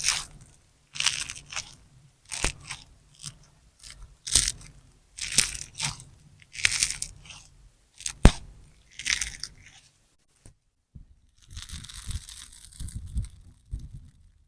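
Sponge slime (a large sponge soaked with clear slime) being squeezed and pressed by hand, giving crackly, crunchy squelches about once a second. For the last few seconds the squeezes give way to a softer continuous crackle with a low rumble underneath.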